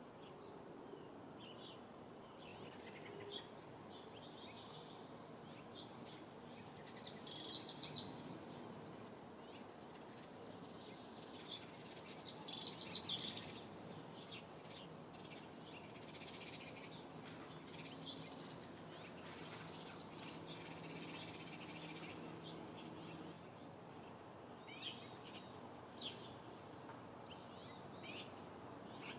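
Small songbirds chirping and calling, with louder bursts of rapid high chirps about seven and twelve seconds in, over low steady background noise.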